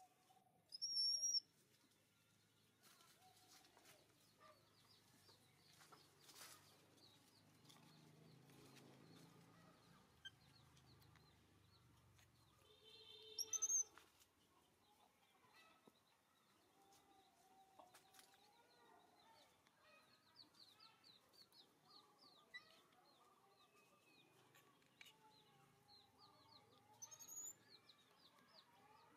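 Quiet outdoor ambience with a few short, high bird chirps, the loudest about a second in, midway and near the end, over faint scattered chirping and the occasional faint cluck of chickens.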